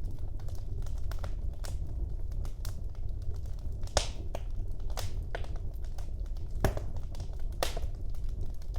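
Wood fire burning in a fireplace: a steady low rumble of the flames with irregular crackles and sharp pops from the burning logs, the loudest pops about four, five, six and a half and seven and a half seconds in.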